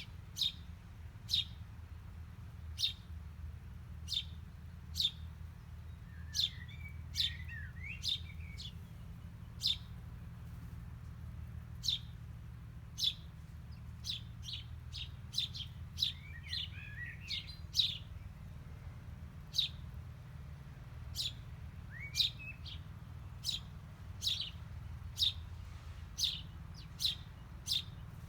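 Small birds chirping: short, sharp chirps repeated about once a second, with a few brief twittering phrases in between, over a low steady hum.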